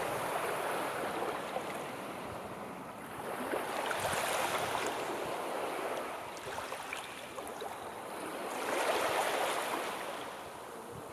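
Sea waves washing onto the shore in a steady rushing hiss that swells and falls back about every four to five seconds.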